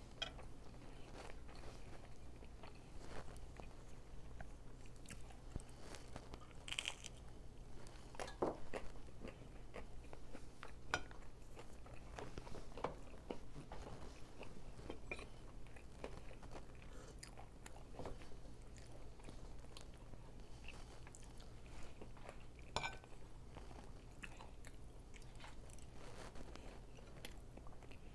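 Chewing and crunching of fried chicken, with irregular crisp crunches and bites.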